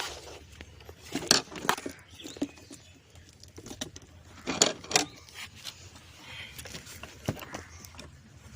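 Small clicks and knocks of plastic and metal washing machine parts being handled and fitted together by hand, in a few short clusters, the loudest about a second in and again halfway through.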